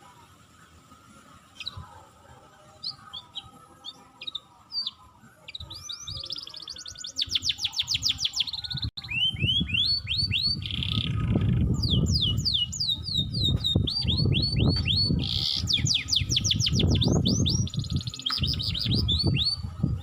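Wild songbirds singing and calling: a few scattered chirps, then from about six seconds in a dense chorus of rapid trills and quick down-slurred whistled notes. A low rumble runs under the song from about nine seconds in.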